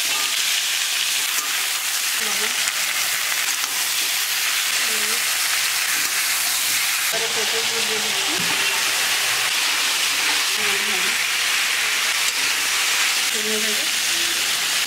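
Vegetable pieces frying in hot oil in a wok, a steady sizzle throughout.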